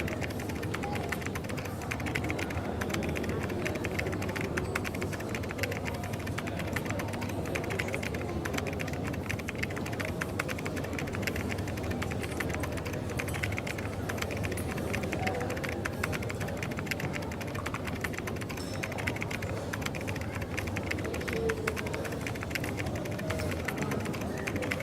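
Rapid, continuous typing on a computer keyboard, many key clicks a second, over coffee-shop background of a steady low hum and faint murmur.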